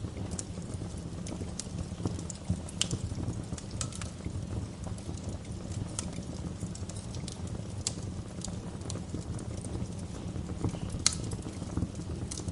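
Wood fire in a fireplace crackling, with irregular sharp pops and snaps over a low steady rumble of burning; the loudest pop comes near the end.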